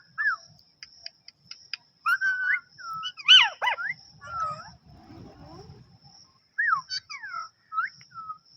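Pet parrot making short whistled calls and chirps that slide up and down in pitch. The loudest is a sharp rising-and-falling squawk about three seconds in, and a few more short whistles come near the end. A thin steady high tone runs underneath.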